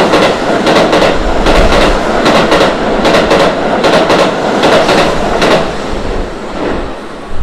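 Keihan 13000-series electric train running past at speed, its wheels clattering over rail joints in a steady clickety-clack of paired clicks. The running noise eases off near the end as the last car goes by.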